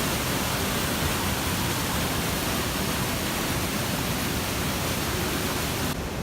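Manavgat Waterfall, a low but very high-volume river cascade, rushing in a steady, dense roar of falling white water. Shortly before the end the high hiss drops away abruptly and the water sounds more muffled.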